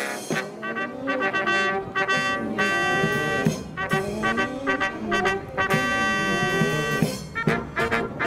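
Brass marching band playing a tune live, with moving inner lines and chords held twice along the way.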